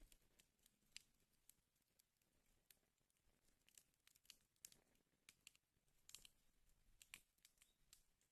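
Wood fire crackling in a fireplace: faint, irregular sharp pops and snaps, a few louder ones about a second in and around six and seven seconds in.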